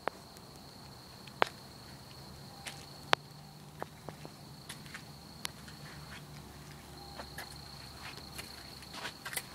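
Insects trilling steadily at one high pitch, with scattered sharp clicks and footsteps.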